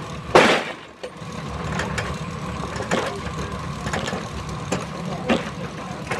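Steam-powered sawmill running off a Keck-Gonnerman steam traction engine: a steady low machinery noise with a faint steady hum. There is a loud burst of noise about half a second in, and short knocks at uneven intervals after it.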